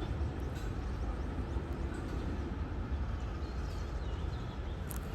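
Steady low rumble of a diesel locomotive running, with a few faint bird chirps over it.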